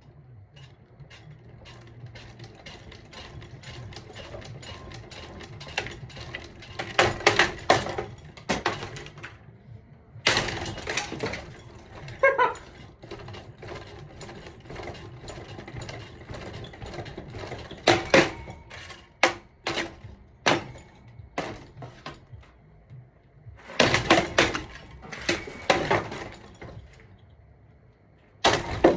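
A ceiling fan being smashed apart: irregular bursts of sharp clattering and cracking impacts, several of them loud, with pieces rattling between them and one last sharp crack at the very end.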